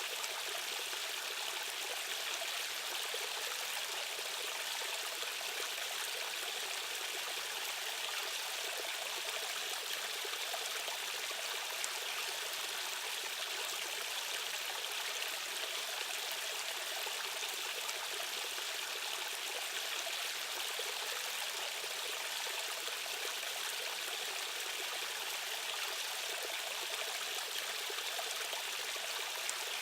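Rushing stream water flowing over rocks, a steady, unbroken hiss of current with a bright splashing edge.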